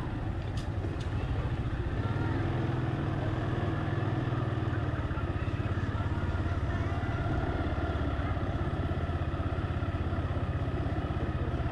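Car engine running at low speed as it creeps along, a steady low rumble with a slight regular pulse. A couple of short sharp clicks come under a second in.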